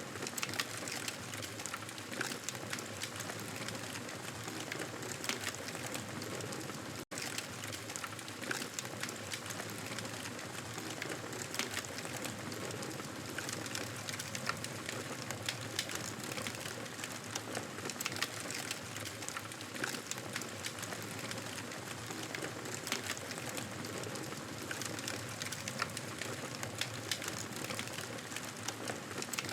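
Wood fire crackling, a steady hiss with frequent small sharp pops and snaps; the sound cuts out for an instant about seven seconds in.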